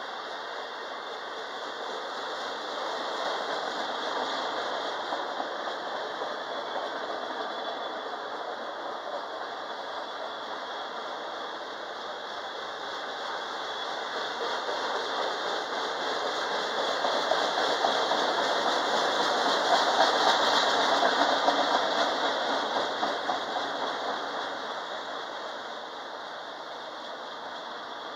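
Autorack freight train rolling past: steel wheels clattering over the rail joints and the tall auto-carrier cars rattling continuously, swelling louder about two-thirds of the way through.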